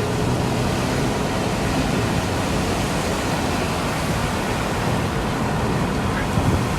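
Heavy rain and wind on a moving car, a loud steady hiss.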